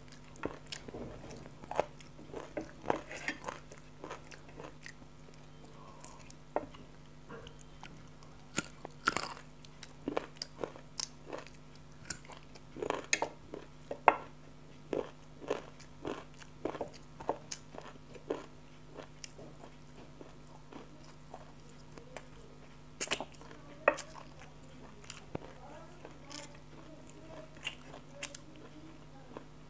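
Close-miked eating sounds: chewing and crunching with mouth clicks, coming irregularly every second or so, over a faint steady hum.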